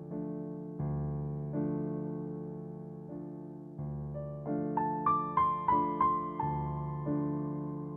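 Soft background piano music: slow sustained chords, with a short run of higher melody notes midway.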